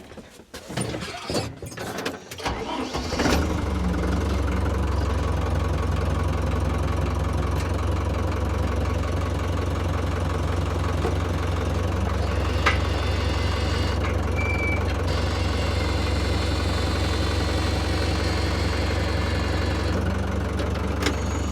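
Tractor engine started after a few clicks and knocks; it catches about three seconds in and then runs at a steady idle, dying away right at the end.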